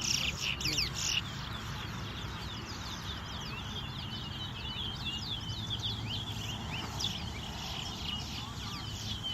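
Many small birds chirping at once, a dense run of short, quick, falling chirps, thickest in the first second and then steady.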